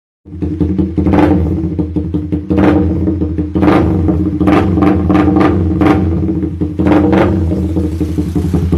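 Suzuki Raider 150 Fi single-cylinder motorcycle engine running through a Daeng Sai 4 aftermarket exhaust: a steady idle with repeated short surges of the throttle, irregularly about once a second.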